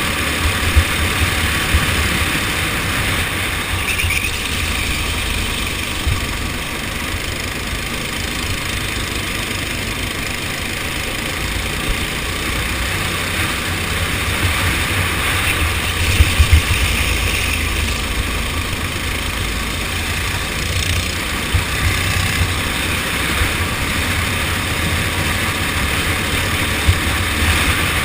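Go-kart engine running during a race, a steady noisy drone with heavy low rumble, with a few short knocks around the middle.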